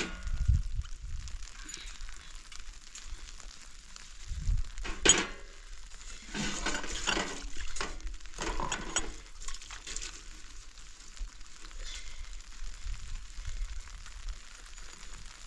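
A steady hiss with scattered clinks and scrapes, in clusters about five, seven, nine and ten seconds in.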